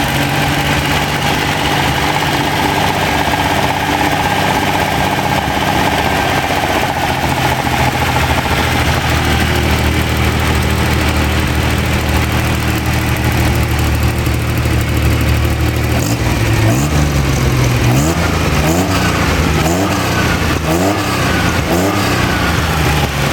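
Ferrari Dino 246 GT's freshly rebuilt 2.4-litre V6 running on a test stand, holding a steady speed, then blipped several times in quick succession in the last seconds, the revs rising and falling with each blip.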